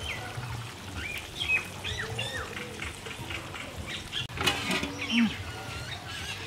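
Small birds chirping repeatedly in short calls that fall in pitch, over a low background rumble, with a brief louder noise about four and a half seconds in.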